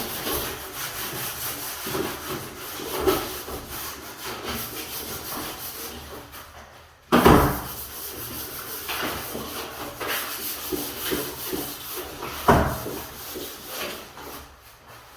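Repeated rubbing or scraping strokes on wood, with two sharp knocks, one about seven seconds in and one about twelve and a half seconds in.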